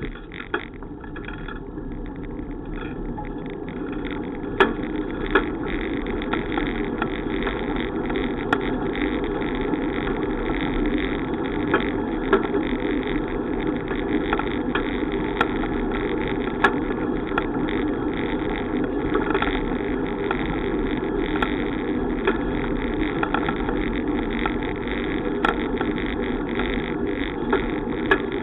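Steady wind and road noise from riding a bicycle, growing louder over the first few seconds as speed picks up, with scattered sharp clicks and knocks from bumps and rattles.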